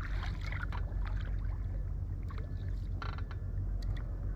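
Steady low rumble aboard a small inflatable fishing boat, with scattered light knocks and clicks and a brief rustle about three seconds in as gear and the catch are handled.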